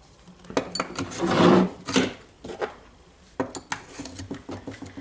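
Small metal parts of a Makita DHR202 rotary hammer clinking as its hammer mechanism is taken apart: a string of sharp clicks, with a longer scrape about one and a half seconds in.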